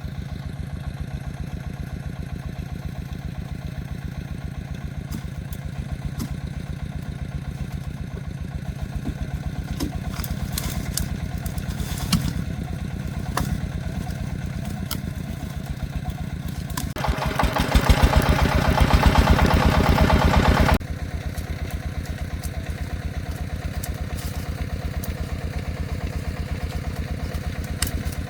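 Single-cylinder diesel engine of a công nông agricultural vehicle chugging steadily, revved harder for a few seconds about two-thirds of the way through, then dropping back suddenly to its steady beat, with occasional sharp clanks.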